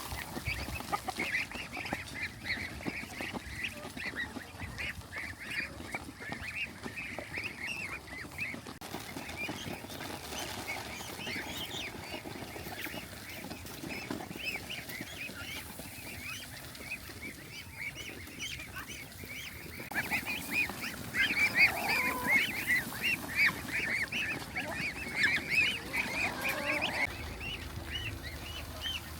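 A flock of poultry calling, with many rapid high-pitched calls overlapping. The calling grows louder about two-thirds of the way through, and a few lower calls join in.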